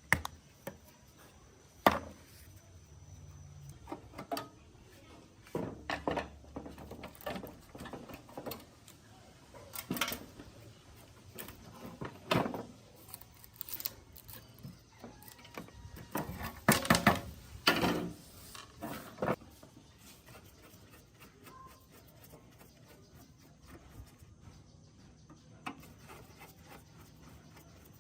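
Hand-work sounds from restoring a rusty gas water heater: scattered knocks, clicks and rubbing as its parts are handled and worked on, busiest in a cluster a little past the middle.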